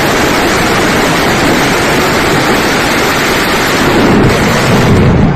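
Mascletà firecracker barrage: a dense, unbroken string of bangs merging into one loud roar, heavier in the low end toward the finale, then cutting off suddenly near the end.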